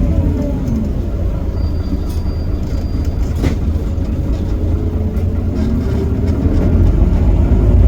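Heuliez GX327 city bus's Iveco Cursor 8 six-cylinder diesel, with its ZF Ecomat automatic gearbox: the engine note drops at the start and runs quieter for a few seconds, then from about six seconds in a kickdown sets in and the revs and loudness climb under full throttle. A single sharp click about halfway through.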